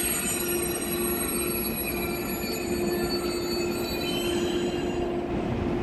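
KTX high-speed train moving slowly along a station track: a steady hum with several thin, high-pitched whining tones that fade out near the end.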